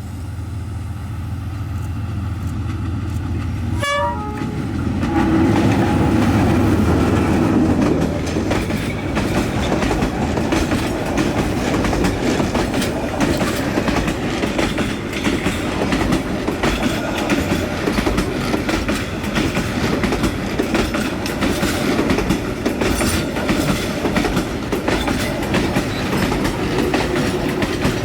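Train horn sounding for a few seconds about five seconds in, over the running noise of a train; then the steady rumble and clatter of wheels on the rails.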